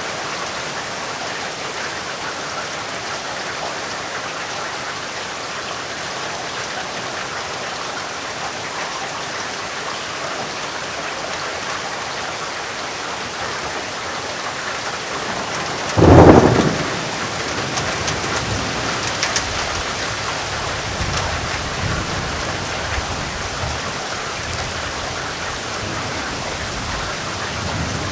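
Steady heavy rain falling, with a sudden loud thunderclap about halfway through that trails off into low rumbling thunder.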